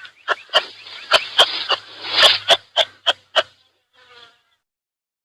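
Kangaroo clucking: a run of sharp clicks, about three to four a second, with a buzzing hiss in the middle. It stops about four seconds in.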